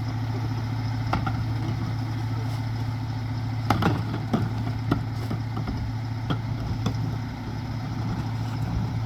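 Mack Granite rear loader garbage truck's diesel engine idling steadily, with a few sharp knocks and clatters over it, the loudest cluster about four seconds in.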